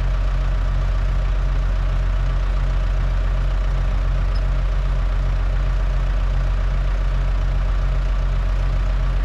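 Loader's engine idling steadily, with a slight even pulse in its low hum.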